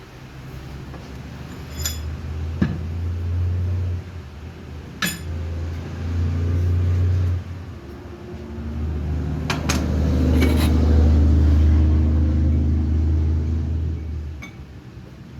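A low steady hum that runs in three stretches, stopping and starting, with several sharp metallic clinks in between.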